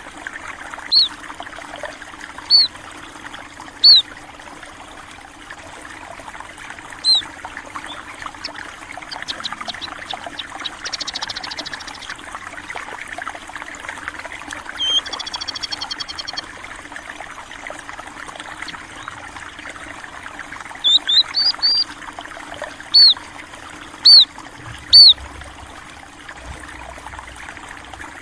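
Steady trickle of running water, with small finch-like birds giving short, loud, high chirps: single calls scattered through, a quick cluster and three calls near the end, and two fast trills in the middle.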